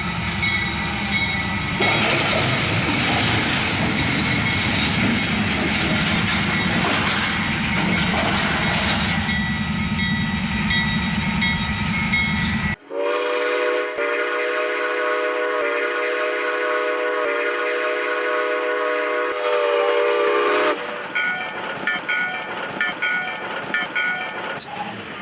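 Train running with a steady loud rumble. About halfway through, the sound cuts abruptly to a locomotive air horn sounding a held chord for about eight seconds, followed by more rail noise with short tones.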